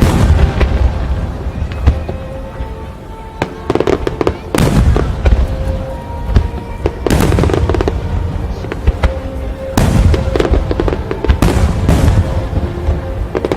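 Aerial fireworks shells bursting one after another: deep booms with sharper cracks and crackling. Several big bursts come a few seconds apart amid smaller crackles.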